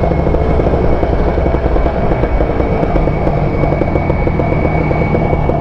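Kawasaki Ninja 150 RR's two-stroke single-cylinder engine running steadily under way, its fast pulsing exhaust note even throughout, with a thin steady high whistle above it.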